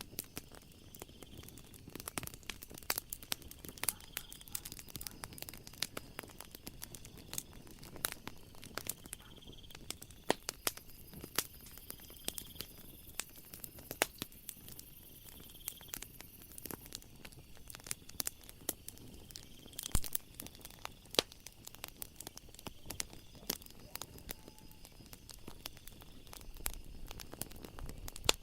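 Wood fire in a fireplace crackling, with dense irregular pops and snaps. Faint steady high-pitched chirring of night insects runs underneath, with a higher band joining for several seconds in the middle.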